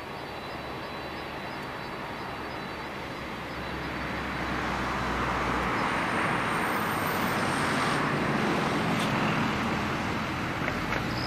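Jet engines of an All Nippon Airways Boeing 767-300ER near the runway end, a steady rushing roar that swells about four seconds in and stays loud to the end.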